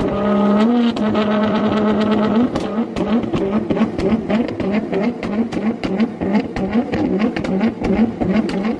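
Sports car engine revving, held at steady revs for a couple of seconds, then blipped over and over about twice a second, with exhaust pops and crackles throughout.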